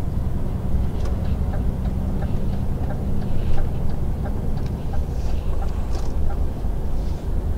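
Heavy truck's diesel engine and road noise droning steadily while cruising on the motorway, with faint light ticks over it at a regular pace.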